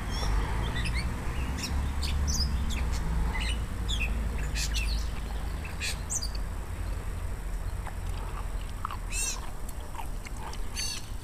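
Wild birds calling, with scattered short high chirps and, near the end, a couple of harsher calls made of quick stacked notes, over a steady low rumble.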